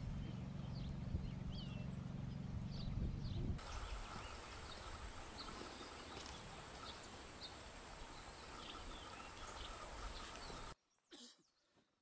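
Small birds calling with short, repeated chirps over a steady low hum. After a sudden change, a steady high-pitched whine runs under fainter chirps. Near the end the sound drops away almost completely, leaving a few faint short noises.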